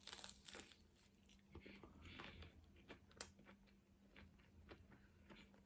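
Faint chewing of food close to the microphone, with a scatter of small clicks and light crunches.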